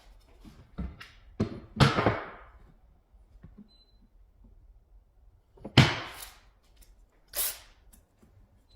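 A series of sharp knocks and thuds, several within the first two seconds and another about six seconds in, then a short swish about a second and a half later.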